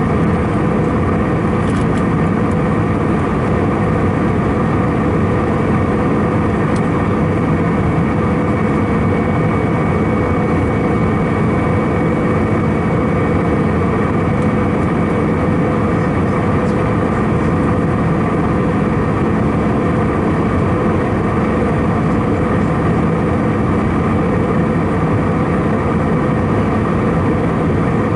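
Steady cabin noise of an Airbus A319-111 airliner in flight: the continuous drone of airflow and its CFM56 turbofan engines, heard from inside the cabin, with a few steady hums over it.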